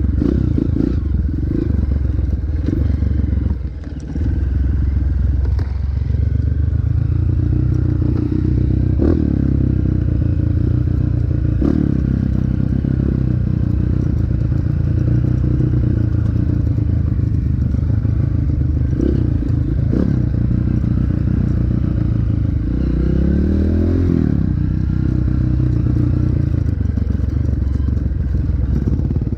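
Dirt bike engine running under way, its pitch rising and falling with the throttle; it drops briefly about four seconds in and revs up and back down near the end, with a few sharp knocks along the way.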